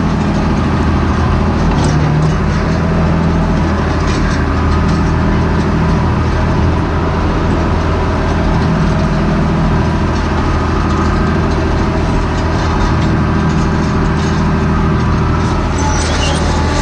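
John Deere 8100 tractor's six-cylinder diesel engine running steadily under load, pulling a grain drill seeding oats.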